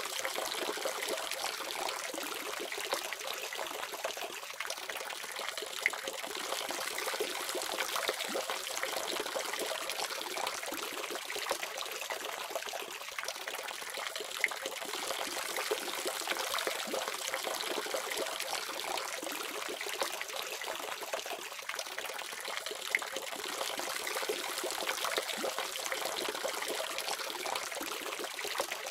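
Water running steadily from a faucet, an even splashing rush with a few brief sharper splashes.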